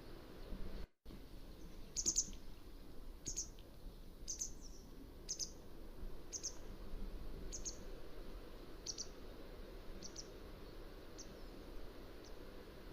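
Mountain wagtail calling: a series of about ten short, high chirps, roughly one a second, growing fainter toward the end, over a low steady background hiss.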